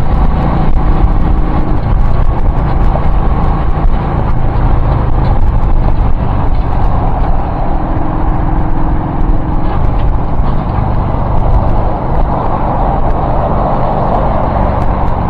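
Road vehicle on the move: a steady, loud engine hum under dense low road and wind rumble.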